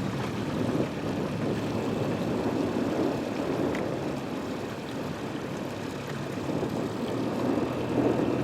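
A small boat's motor running, mixed with the rush of water and wind.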